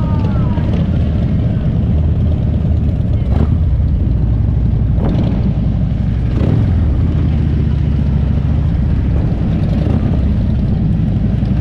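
Harley-Davidson V-twin motorcycle engine running steadily on the road, a loud low rumble. Three brief sharp sounds cut through it, about three and a half, five and six and a half seconds in.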